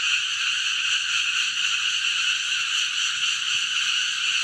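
Cicadas singing in a loud, steady, unbroken drone, high-pitched and shrill.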